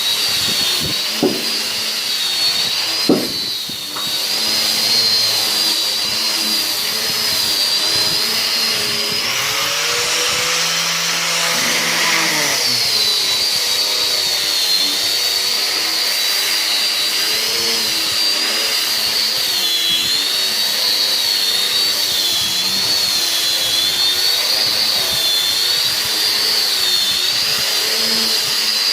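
Electric woodworking power tool running continuously with a high whine whose pitch wavers. The sound grows harsher and noisier for about three seconds around ten seconds in, as if the tool is cutting, and there are two sharp knocks about one and three seconds in.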